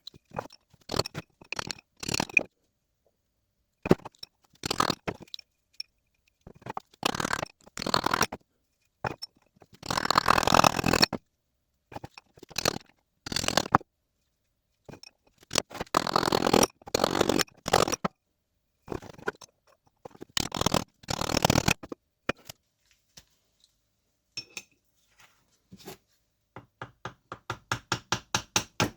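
A tool prying and scraping at a glued-in front shaft seal in the Eaton M62 supercharger's bearing plate, in irregular scraping bursts with pauses between, and a quick run of short scraping strokes near the end.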